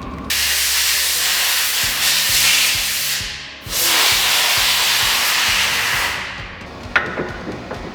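Pressurised spray hissing in two long blasts, with a brief break between them; the second fades out gradually.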